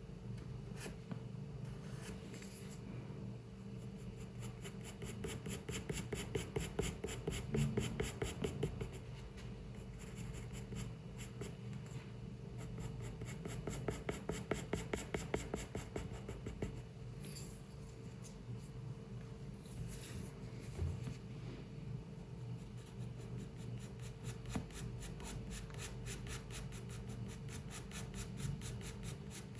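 Pencil scratching on paper in quick repeated strokes, with two busier spells of rapid back-and-forth strokes like shading, over a steady low room hum.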